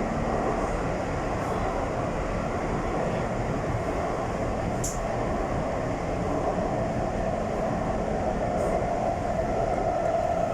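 Taipei Metro Tamsui-Xinyi line train running underground between stations, a steady rumble of wheels on rail and traction motors, with one brief sharp click about five seconds in.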